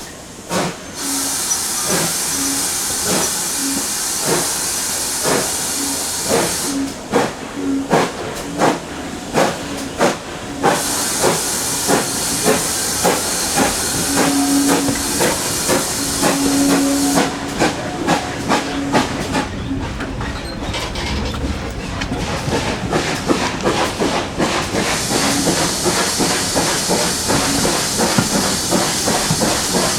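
Steam locomotive pulling away: exhaust chuffs start about a second apart and quicken to several a second. Loud hissing steam comes and goes over the beats.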